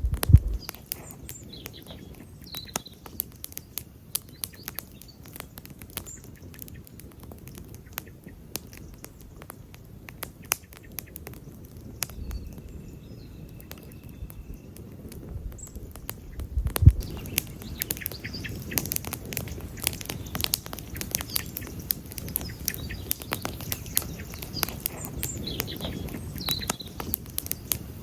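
Wood campfire crackling, with sharp pops and snaps coming more thickly in the second half and a low thump about seventeen seconds in.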